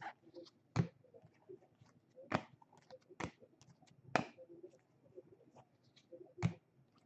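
Trading cards being handled at a table: a scattering of sharp taps and card clicks, about five loud ones at irregular gaps.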